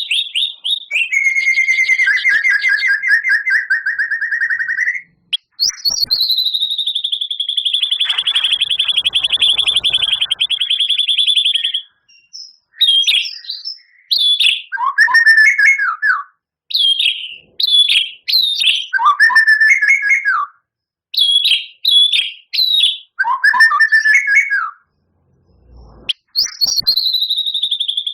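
White-rumped shama singing: a fast rattling trill, then a long higher trill, then a run of short phrases with sweeping, falling notes, and another high trill near the end.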